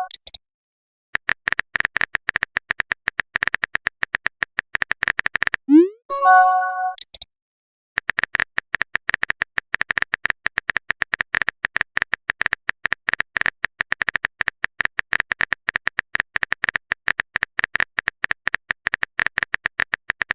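Rapid clicking of a keyboard-typing sound effect, many light ticks a second, in two long runs. The runs are broken about six seconds in by a short rising boing and a bright multi-note message chime.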